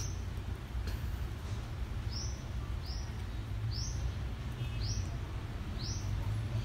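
A bird chirping repeatedly: five short, high notes, each falling in pitch, about one a second from about two seconds in. A steady low rumble runs underneath.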